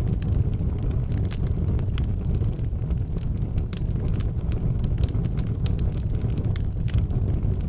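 Fire burning in an outdoor fireplace: frequent irregular sharp crackles and pops over a steady low rumble of the flames.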